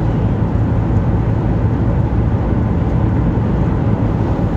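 Steady road and engine noise inside a moving car's cabin: a constant low hum with rumble beneath it.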